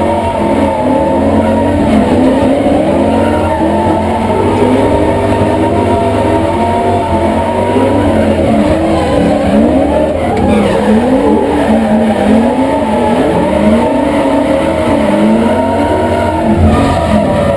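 Drift car's engine heard from inside the cabin on a drift run, its pitch rising and falling again and again with the throttle, with tyres squealing.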